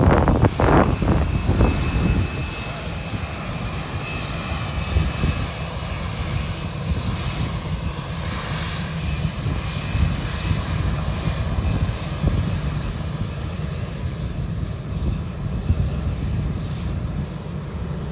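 Boeing 787 Dreamliner's twin turbofan engines running with a steady whine. Wind buffets the microphone in the first couple of seconds.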